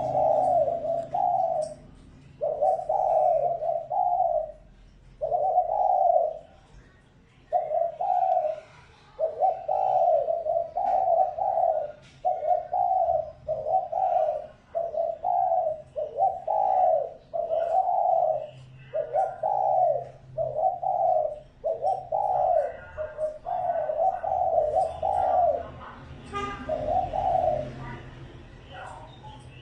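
Decoy spotted dove cooing over and over, in runs of short low coos of about two notes a second, broken by brief pauses and a longer pause near the end. This is the call played to lure wild doves.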